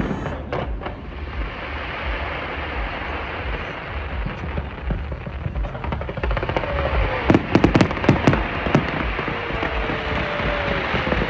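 Fireworks display: a few sharp bangs at the start, then a dense, steady crackle, and another quick cluster of bangs about seven to nine seconds in.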